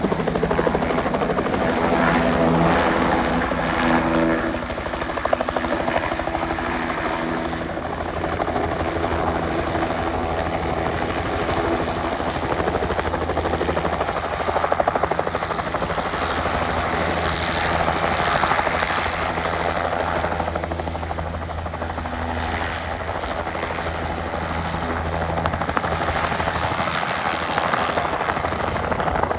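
Bell 505 helicopter's turbine and rotor running steadily, a continuous low pitched drone with a wide noisy rush over it.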